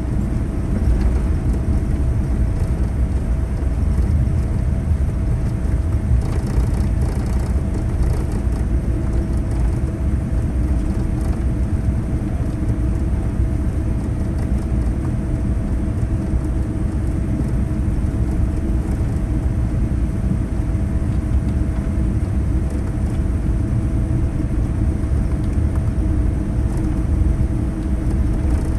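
Steady low rumble inside the cabin of a Boeing 787-9 on the ground after landing, with a constant hum tone running through it.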